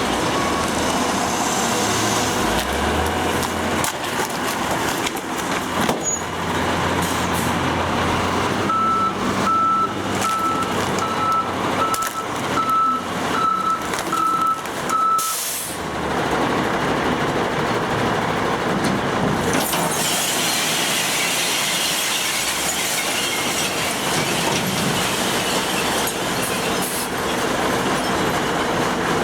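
Recycling truck running, its backup alarm beeping steadily at about one and a half beeps a second for several seconds mid-way, followed by a short air-brake hiss. In the last third the engine and machinery noise grows brighter.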